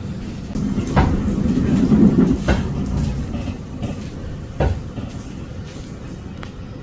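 Train rumbling low and steadily, swelling about two seconds in, with sharp knocks about one, two and a half and four and a half seconds in.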